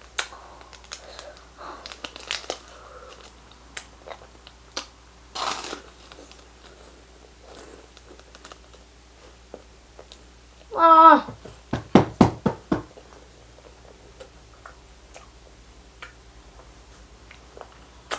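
A puffed snack stick being eaten out of a crinkly foil wrapper: scattered small chewing and wrapper sounds, a short hummed "mm" a little past halfway, then a quick run of loud crunches.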